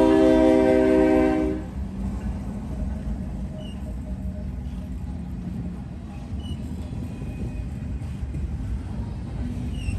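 Diesel freight locomotive's air horn holding a chord of several notes, cutting off about a second and a half in. It leaves the steady rumble of the passing train, with a few faint squeals.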